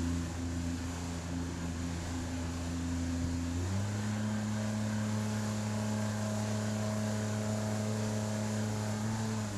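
Outboard jet motor of an inflatable river jet boat running steadily. A little under four seconds in it quickly picks up revs and holds the higher pitch, then drops back near the end.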